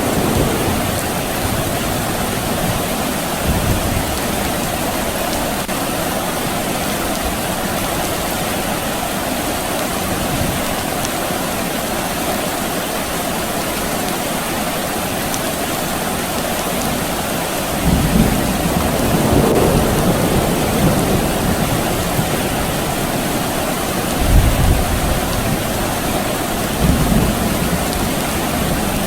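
Steady rain falling, with several low rumbles of distant thunder. The longest rumble comes about two-thirds of the way through, and the strongest follows a few seconds later.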